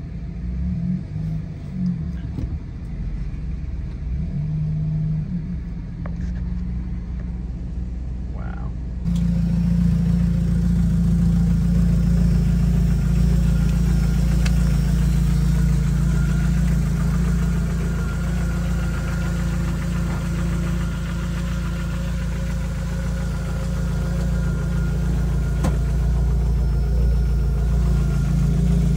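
A vehicle engine running. For the first nine seconds it is heard from inside a truck cab while driving. Then, after an abrupt change, it becomes a louder, steady idle.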